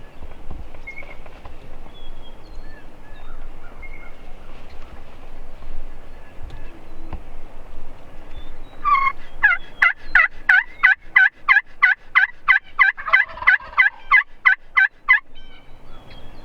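Turkey yelping: a long series of about twenty loud, evenly spaced yelps, roughly three a second, each dropping in pitch, starting about nine seconds in and stopping about six seconds later. Faint songbird chirps are heard before it.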